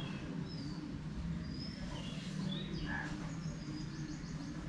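Birds chirping in the background: scattered short, high chirps and a quick trill near the end, over a steady low hum.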